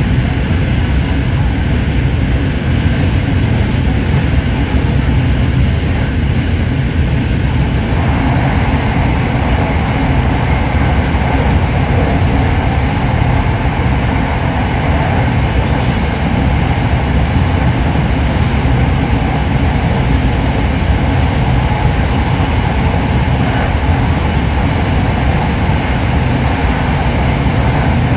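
Steady running noise inside the carriage of a moving SRT Dark Red Line electric commuter train, a Hitachi AT100 multiple unit: a low rumble of wheels on rail and traction equipment. The noise grows a little fuller about eight seconds in.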